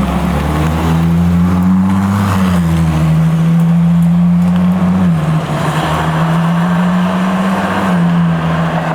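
A car engine running at steady revs, its low note shifting in pitch in small steps three times, with road noise.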